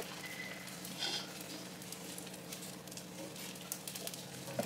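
Paddu batter sizzling in the oiled cups of a paddu pan: a steady frying hiss with small crackles, briefly louder about a second in.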